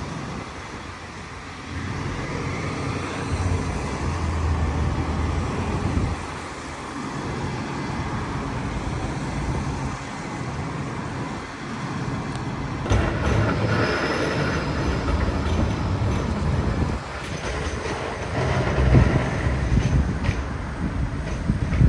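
Tram running on street rails: a continuous rumble of motors and wheels that rises and falls in level.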